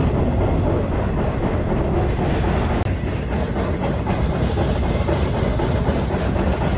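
Freight train rolling along the track, heard from aboard one of its cars: a loud, steady running noise of wheels and rail cars, growing hissier about three seconds in.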